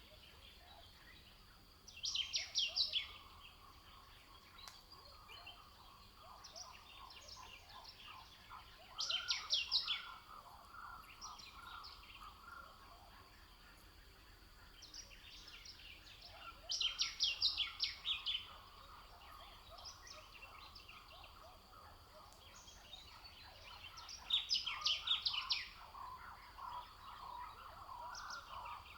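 Birdsong: one bird repeats a short, rapid trill of high notes about every seven or eight seconds, four times, over softer chirping from other birds.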